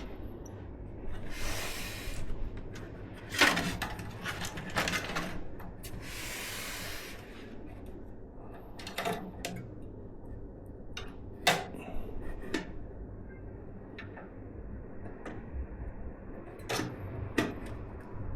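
Hands working on a PC build: a scattering of sharp clicks and knocks as parts are handled, with two brief rustling hisses in the first half, over a low steady hum.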